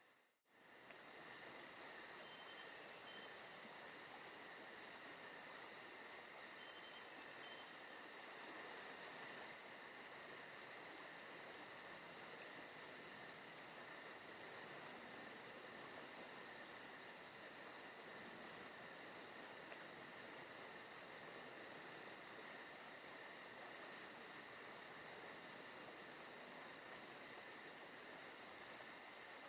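Faint forest ambience of crickets and other insects trilling steadily, with a split-second dropout right at the start.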